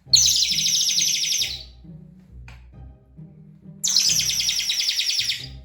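Antique tin toy 'chirping bird' whistle blown twice, each blow a warbling, rapidly trilled chirp about a second and a half long.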